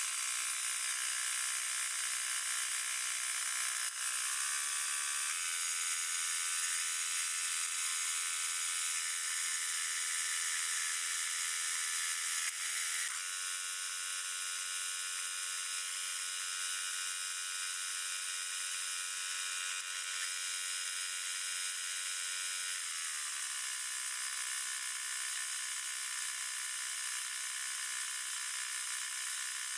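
Sawmill running through a cut on a log, played sped up, so its engine and blade come out as a high, even, whine-like buzz. The pitch shifts in a few steps along the way.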